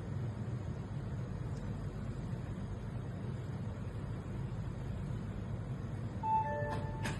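A steady low hum, with a short electronic beep of a few mixed tones about six seconds in, followed by a sharp click near the end.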